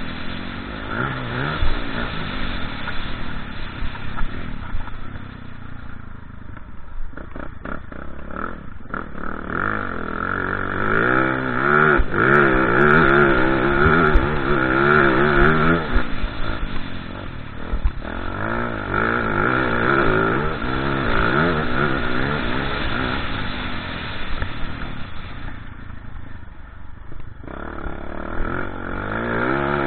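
Motocross motorcycle engines revving up and down, their pitch rising and falling with throttle and gear changes. They are loudest in the middle, and there are two brief lulls.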